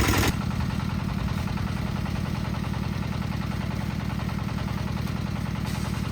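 Concrete mixer's engine running steadily with a fast, even pulse; a louder, fuller noise over it stops a moment in.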